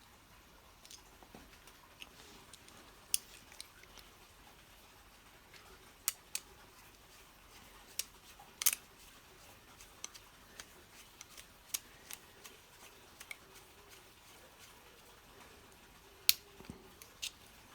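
Sporadic light clicks and taps of small metal carburettor parts being handled and fitted back together, at an irregular pace with quiet between.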